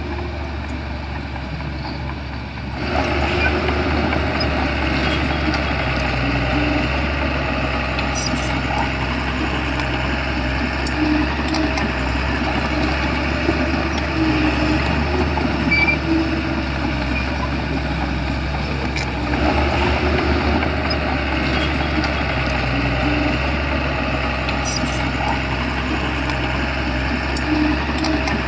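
Shantui bulldozer's diesel engine running steadily, getting louder about three seconds in and again about two-thirds through as the engine works harder, with a few brief clicks.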